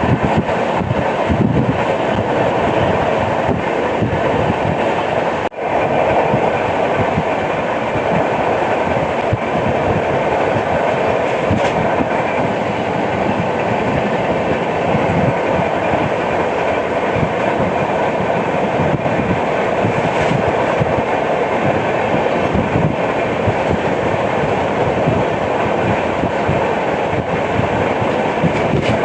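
Passenger express train running at speed: steady rumble of the coach with the rapid clickety-clack and knocking of wheels over the track, including the thump of a wheel with a flat spot. The sound cuts out for an instant about five and a half seconds in.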